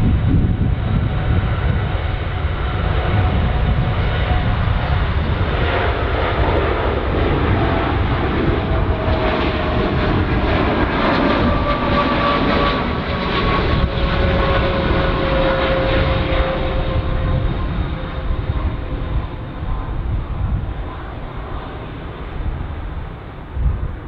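Jet airliner passing with its engines running: a loud rumble with a whine that slowly falls in pitch, easing off over the last few seconds.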